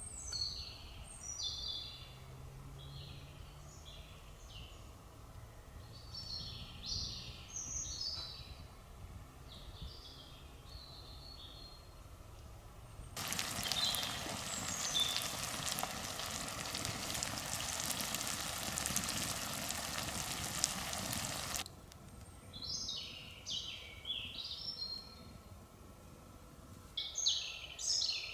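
Songbirds singing short, repeated high phrases. Midway an even, steady hiss cuts in for about eight seconds and stops abruptly.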